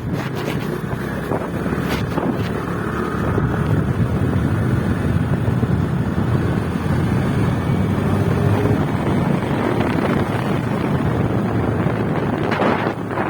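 Wind buffeting the microphone over a motorcycle running at riding speed.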